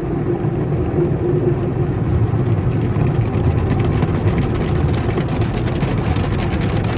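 Automatic car wash machinery running, a loud steady rumble with hiss, heard from inside the car's cabin; from about three seconds in a fine rapid crackle joins it.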